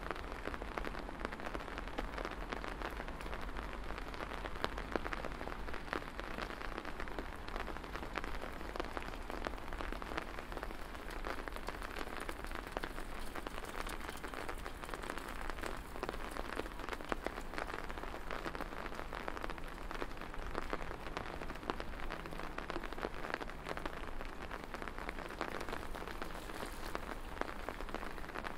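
Steady rain, with a dense patter of individual drops striking close by.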